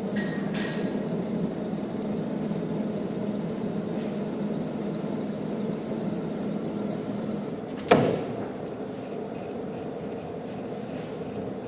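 Manual metal lathe running steadily with a low hum, cutting a large bolt thread. About eight seconds in there is a single sharp metallic clank that rings briefly.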